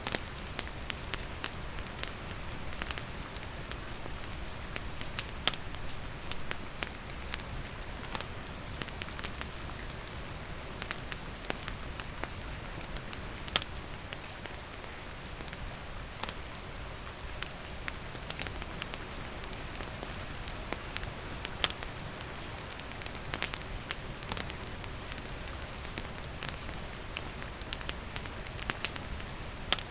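Steady rain falling, with a wood campfire crackling: irregular sharp pops scattered through the hiss, a few standing out louder.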